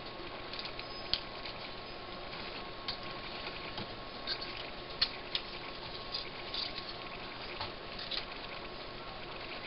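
Scattered light clicks and taps, the loudest about five seconds in, as monitor parts and cables are handled, over a steady hiss and a faint steady high tone.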